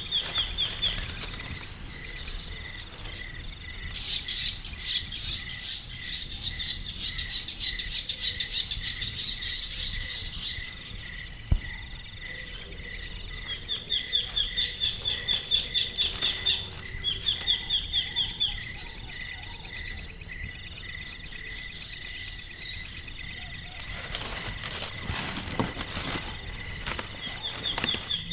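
Crickets chirping in a steady, fast-pulsing high trill, with a bird chirping in a few short runs now and then.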